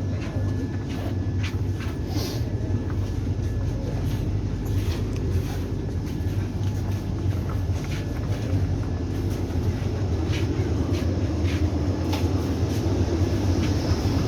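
Steady low hum and rumble of a Vande Bharat Express train carriage, with scattered light clicks and knocks.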